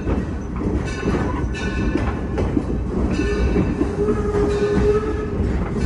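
Steam-hauled passenger train running on the rails, heard on board: a continuous rumble and rattle of the cars rolling along the track.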